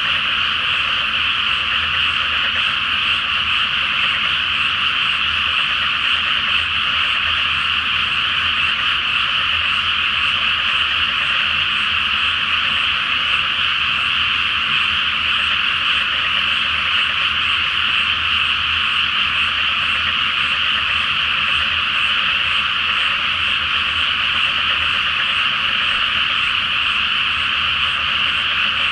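Dense chorus of many frogs calling at once from a flooded rice paddy, merging into a steady, unbroken wall of croaking.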